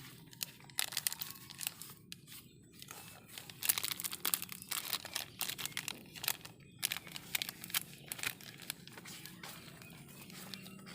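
A motorcycle engine being wiped dry after washing: irregular scratchy rustling strokes that come and go, busiest in the middle and fading near the end.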